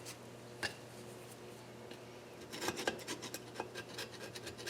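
Short scratchy scraping and rubbing strokes on metal engine parts, starting about halfway in, over a steady low hum, with one light knock just after the start.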